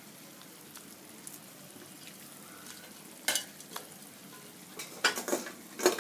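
A metal spoon scraping and knocking against a cooking pot as layers of rice and chicken gravy are spooned in for biryani, a few sharp clinks about halfway through and a quick cluster near the end, over a faint steady hiss.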